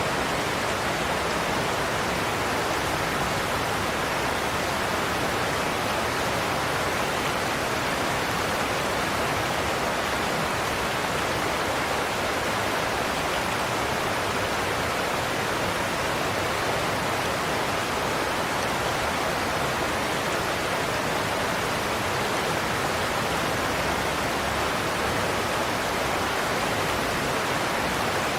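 Large waterfall's cascades pouring onto the river below, a steady, unbroken rushing roar.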